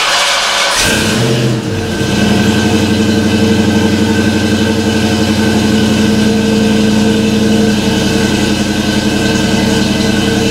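1990 Ford Mustang GT's 5.0-litre V8 just started: a burst of noise as it catches at the very start, then settling into a steady idle from about two seconds in.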